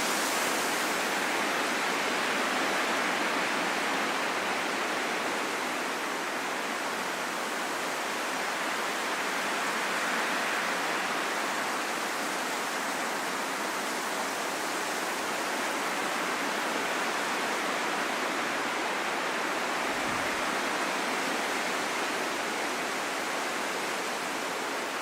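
Steady rain falling in a forest, an even hiss of countless drops with no single strike standing out.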